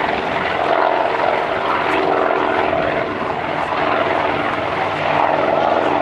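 Propeller aircraft engine running in flight, a steady sound whose pitch shifts slowly as the plane moves.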